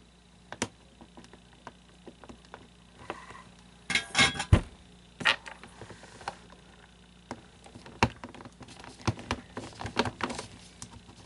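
Small metal tool clicking and scraping as a staple is worked loose and pried out. There are irregular clicks, with a burst of loud clicks about four seconds in and busier clicking near the end.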